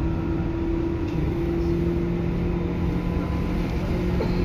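Seibu 2000 series electric commuter train running, heard from inside the car. There is a steady low rumble of wheels on rail, with two steady humming tones.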